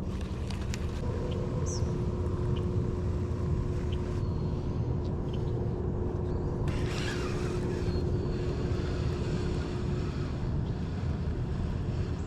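A low, steady rumble with a faint steady hum above it and a few faint clicks.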